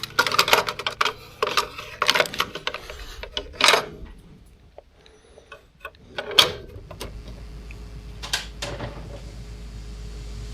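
Plastic clicks and clacks of a cassette tape being handled and loaded into a cassette player, then a loud click about six seconds in. After it the player runs with a steady low hum and faint tape hiss before the recording starts.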